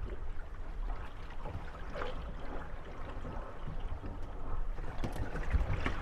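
Moored wooden gondolas rocking on small waves, with water lapping at the hulls. Occasional short knocks and creaks come from the boats bumping against each other, more of them near the end.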